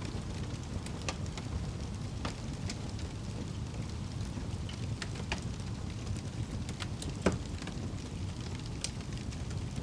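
Fire crackling in a fireplace: a steady low rumble of flames with scattered sharp pops, one louder pop about seven seconds in.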